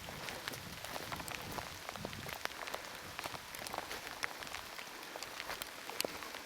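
Heavy rain falling steadily, with many sharp individual drops tapping close by at an irregular pace.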